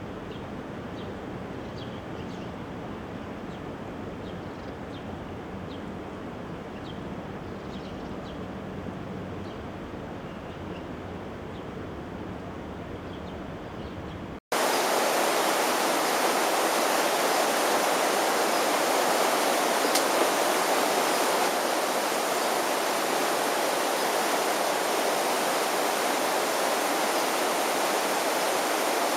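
Rushing floodwater of the swollen Elbow River: a steady, fairly quiet rush with faint high chirps over it, cutting abruptly about halfway through to a louder, brighter, unbroken roar of water.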